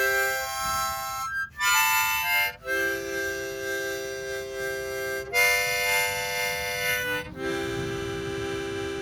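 Harmonica playing long held chords, several notes sounding together, moving to a new chord every second or two with short breaths between.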